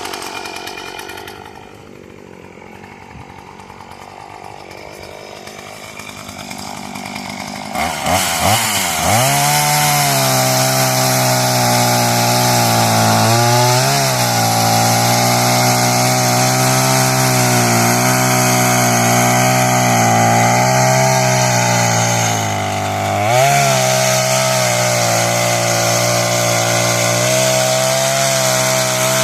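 38cc Homelite two-stroke chainsaw engine winding down at the start and running quietly for a few seconds. About eight seconds in it comes back up to speed and runs steadily, dipping briefly twice. The saw is running again after its fuel line was replaced and its throttle pin reset in the correct hole.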